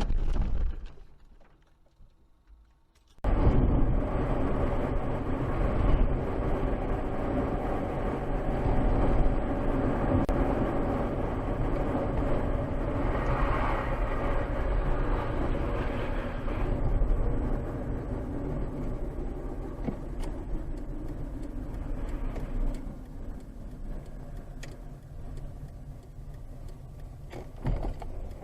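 A car driving, its engine and tyre noise running steadily, after a near-silent gap of about two seconds near the start. The sound swells a little about halfway through, then eases off.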